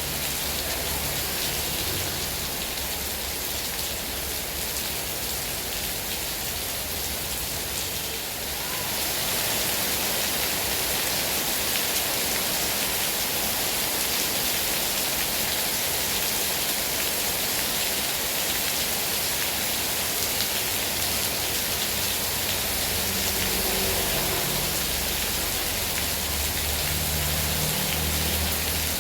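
Heavy rain falling steadily, a dense even hiss that grows a little louder about a third of the way in.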